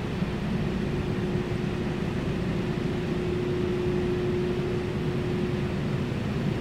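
Steady mechanical hum with a single held tone over an even rush of noise, typical of building ventilation or air-conditioning running.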